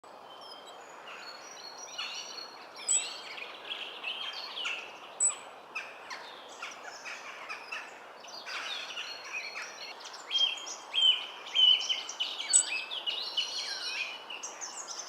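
Many birds in the tree canopy singing and chirping at once, a dense chorus of overlapping chirps and trills, busiest and loudest a little after the middle, over a steady background hiss.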